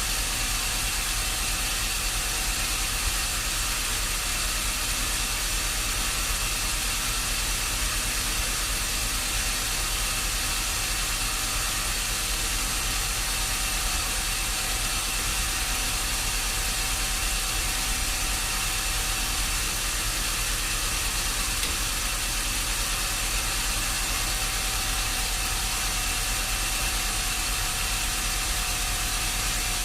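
Sawmill machinery running steadily: a constant hiss with a faint steady whine, with no change in level.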